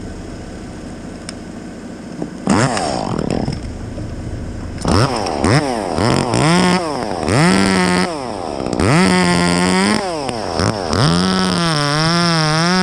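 Two-stroke chainsaw idling, then revved up and let back down again and again from about two and a half seconds in. Near the end it is held at high revs, with the engine speed wavering.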